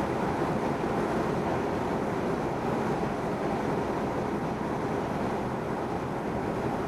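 Cessna 172N's four-cylinder Lycoming engine and propeller running steadily, heard from inside the cabin.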